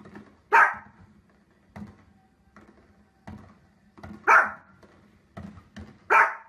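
A dog barking: three loud, short barks, about half a second in, past four seconds and near the end, with softer noises in between.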